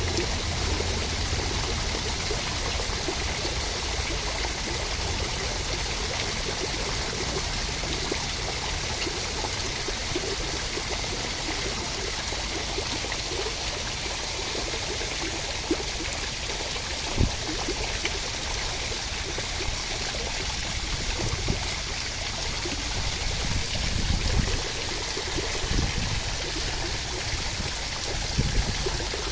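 Steady rainfall, an even hiss of rain with a few brief low thumps, most of them near the end.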